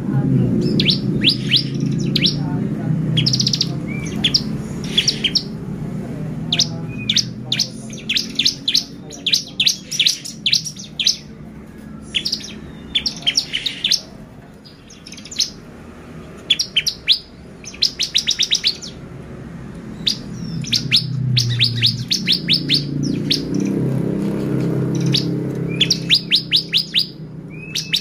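Bar-winged prinia (ciblek) singing: repeated bursts of fast, sharp, high ticking notes with short pauses between phrases. A low background rumble sits underneath near the start and again about three quarters of the way through.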